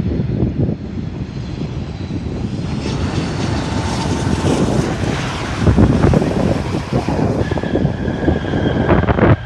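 Airplane engines passing close by: a loud, continuous rumble that swells to its loudest about six seconds in, with a steady whine coming in near the end.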